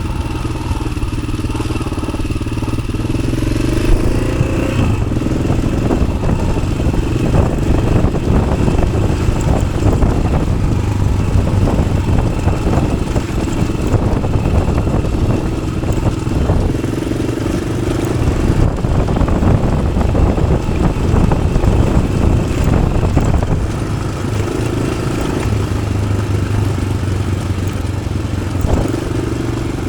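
Yamaha XT600's single-cylinder four-stroke engine running through an Arrow aftermarket exhaust while the bike is ridden off-road, its note rising and falling with the throttle.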